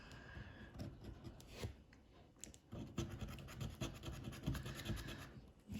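Faint scratching of a scratch card's coating being scraped off in short, irregular strokes, with a brief pause about two seconds in.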